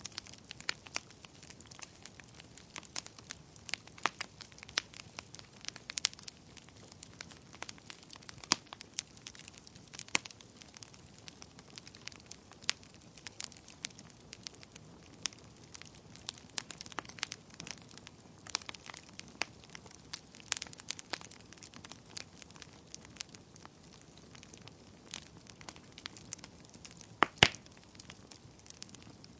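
Wood fire crackling: irregular sharp snaps and pops over a faint low hiss, with one louder pop about 27 seconds in.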